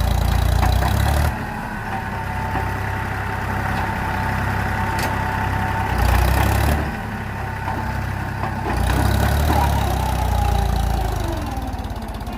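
Diesel tractor engine running, swelling louder three times, with its note dropping near the end.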